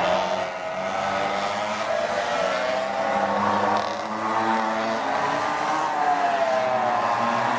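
Minibike's small engine running, its pitch rising and falling repeatedly as the throttle is opened and eased off.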